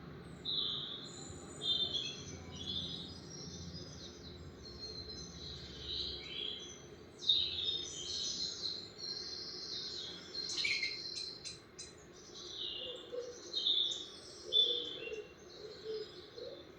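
Several birds chirping and singing in short, high, rapid calls. A lower repeated call joins in the last few seconds.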